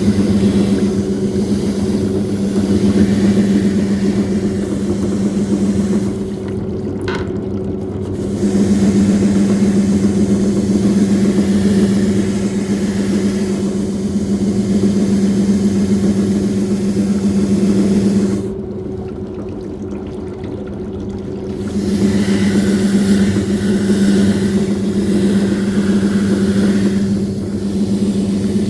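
Washing machine motor running with a steady hum and water sloshing, pausing briefly twice, about six and about eighteen seconds in, as the wash cycle stops and restarts.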